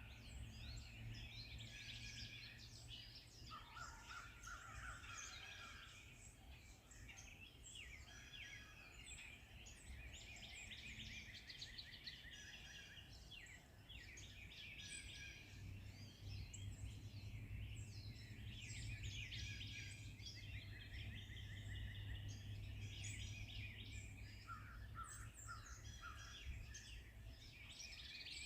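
Several forest birds singing and chirping at once, with many short overlapping calls and trills, over a faint steady low hum that grows louder about halfway through.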